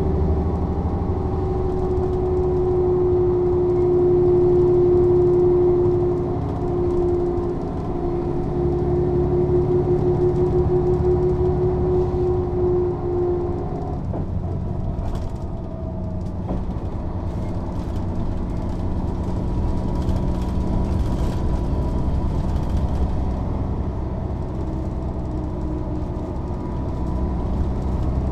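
Mercedes-Benz O 407 city bus under way: the diesel engine running under load with a steady whine over the low rumble. The whine stops suddenly about halfway through, and the engine runs on a little more quietly.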